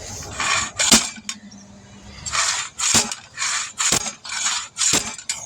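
Repeated sharp metal clanks about once a second as a hand tool is worked against a tire and steel wheel to break a stubborn bead off the rim, each clank preceded by a hard, effortful breath.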